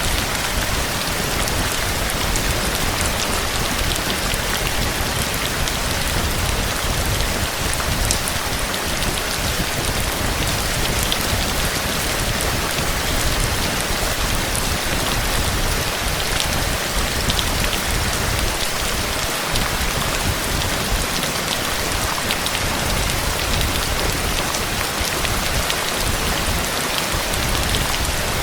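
Heavy, steady rain falling, with scattered individual drops ticking on hard surfaces.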